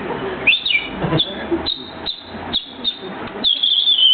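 A man whistling an impression of a chaffinch: a series of short, high chirps, some sweeping quickly up or down, ending in a longer falling whistle.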